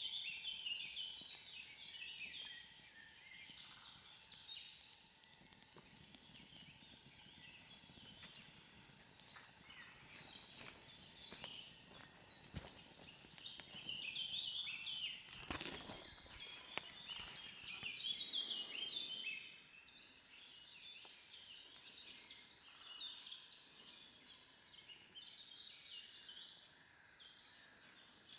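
Small birds singing and chirping, several calls overlapping in quick, high, repeated notes, with scattered sharp clicks between about six and sixteen seconds in.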